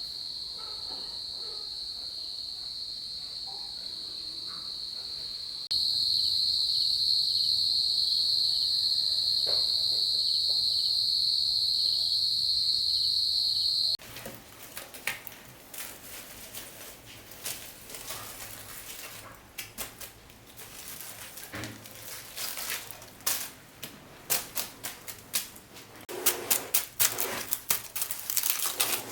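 Steady high-pitched insect chirring, crickets or cicadas, that gets louder part way through and then stops abruptly about halfway. It gives way to irregular clicks and rustles of handling or movement.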